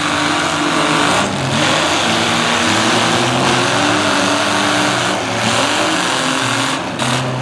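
Several demolition derby cars' engines running at once, revving up and down over a loud, steady din.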